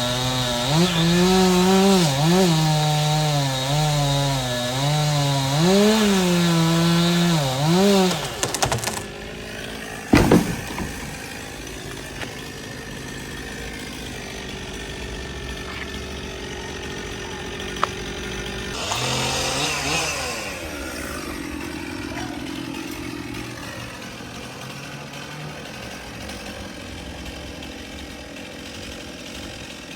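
Stihl chainsaw cutting wood, its engine note dipping and rising under load for about the first nine seconds, then dropping back to a quieter run. One sharp knock about ten seconds in, and a short rev of the saw around twenty seconds in.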